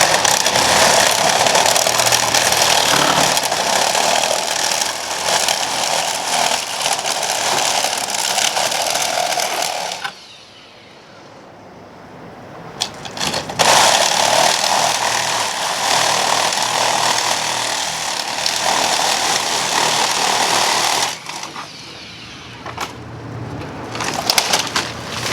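A power tool running in two long, steady runs of about ten and seven seconds, with a short pause between them and a few sharp clicks near the end.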